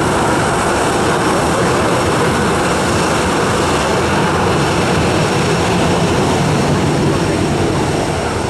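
Jet aircraft engines running, a loud, steady rush of noise.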